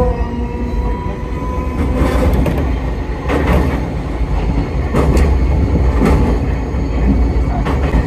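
Enoden electric train running through a tunnel, heard from inside the car: a steady low rumble with a few sharp clacks of the wheels over the rails. A faint whine fades out in the first couple of seconds.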